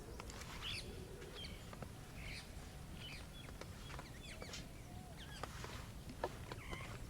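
Birds chirping with short, scattered calls, over the sharp pops and crackles of a wood campfire, one louder pop about six seconds in, and a steady low rumble.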